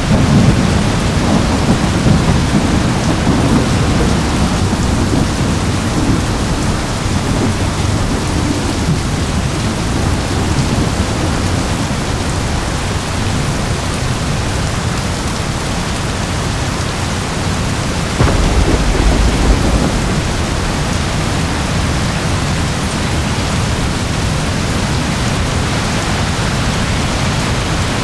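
Steady rain with thunder. A rumble of thunder comes right at the start and fades over several seconds, and a second, shorter low rumble comes about two-thirds of the way through.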